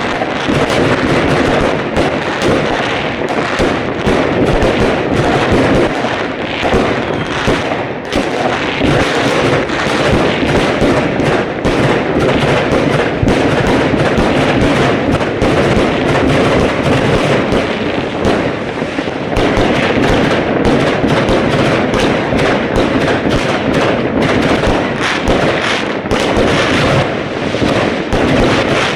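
Fireworks display: a dense, continuous barrage of bangs and crackling with no break.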